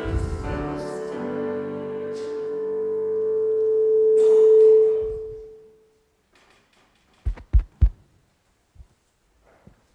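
Closing chord of a hymn on a keyboard instrument, held and swelling before dying away about five seconds in. Near the end come three quick low thumps and a few faint clicks.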